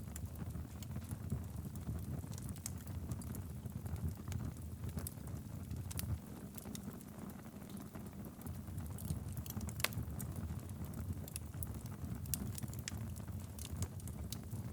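Wood fire burning steadily in a fireplace: a low rumble of flames with irregular crackles and pops, one sharper pop about ten seconds in.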